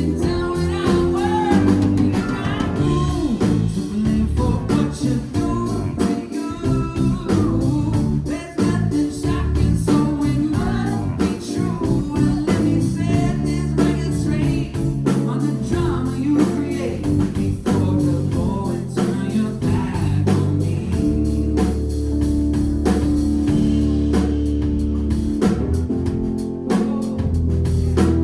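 Live band playing a pop-rock song: a male lead vocal over guitar, bass and drums, at a steady beat.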